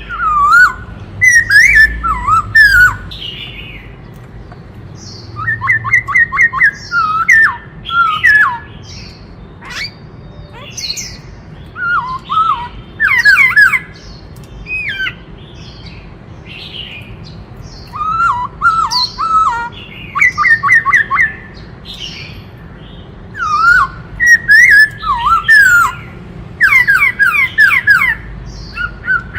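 Black-throated laughingthrush singing: loud phrases of quick whistled notes sweeping up and down, delivered in bursts of two to four seconds with short pauses between.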